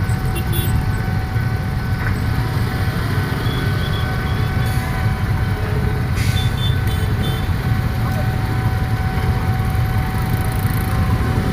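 Diesel locomotive engine running steadily: a loud low rumble with a thin steady whine over it, which stops near the end.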